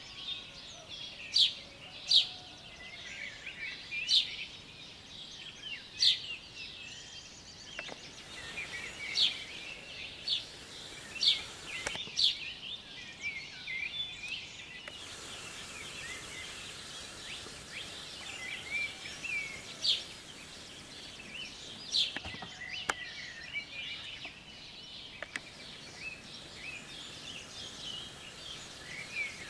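Morning bird chorus: many birds chirping and calling together, with loud, sharp single calls standing out every second or two over a busy background of softer twitters.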